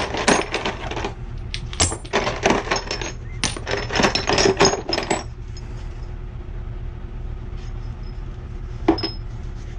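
Metal gas pipe fittings clinking and clattering against one another as they are sorted through by size, in a quick run of clinks for about five seconds. One more clink comes near the end, over a steady low hum.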